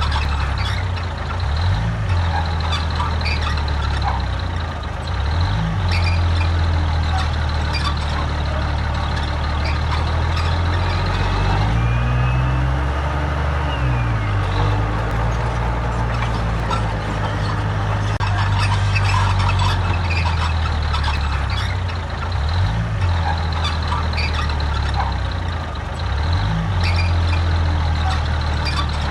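Heavy diesel earthmoving machinery working: a big diesel engine runs steadily under load, with frequent clanks and knocks, and revs up and back down briefly about halfway through.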